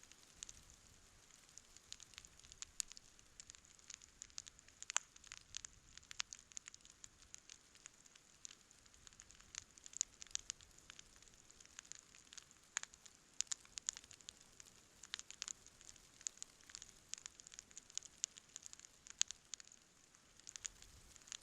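Wood campfire crackling: irregular sharp pops and snaps, several louder ones scattered through, over a faint steady hiss of burning.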